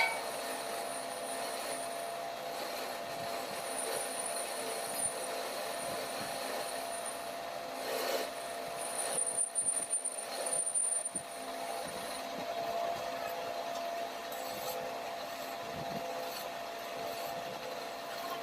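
Shop machine or power tool running steadily with a constant tone, with rough working noise and a thin high whine that comes and goes in the middle.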